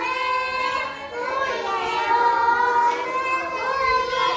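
Young children singing a Korean children's song (dongyo), holding sung notes with a short dip between phrases about a second in.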